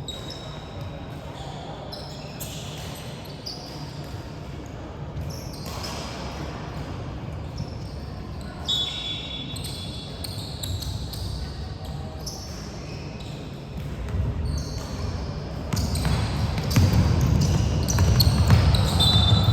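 Basketball game play in a gym: a ball bouncing on the court floor with short knocks, sneakers squeaking now and then, and voices of players and spectators echoing in the hall, louder in the last few seconds.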